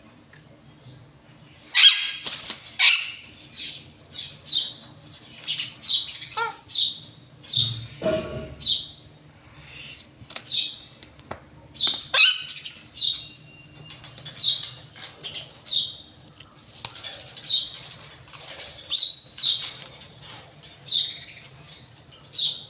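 Caged parrots calling over and over: a steady run of short, high-pitched squawks and chirps, one or two a second.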